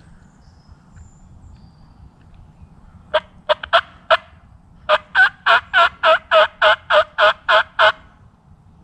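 Wild turkey calling close by: a few scattered notes, then a steady run of about eleven evenly spaced yelps, roughly three a second, that stops abruptly.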